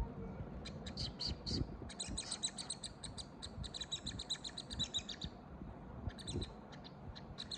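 Young bird chirping in short, high cheeps: a few scattered ones, then a fast run for about three seconds, then a few more near the end.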